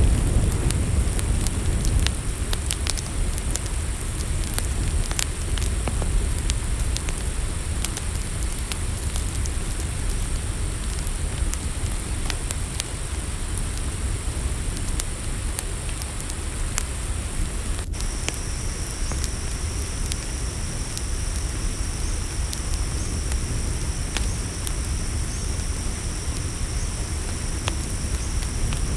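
Campfire crackling, with scattered sharp pops over a low steady rumble, under a steady high-pitched cricket chorus. About two-thirds of the way through, a second, slightly lower insect trill joins in.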